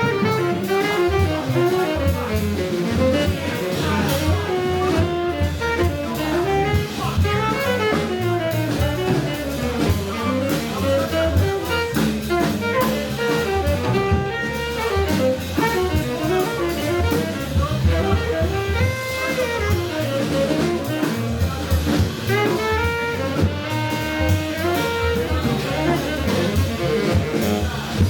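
A live jazz band playing, with a winding melodic lead line over a steady bass and drum groove.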